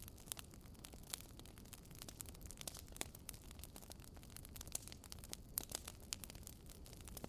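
Wood logs burning in a fireplace, crackling with frequent irregular sharp pops over a low steady rumble of the fire.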